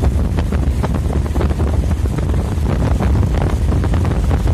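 Strong wind buffeting the microphone: a steady low rumble with many short crackles over it.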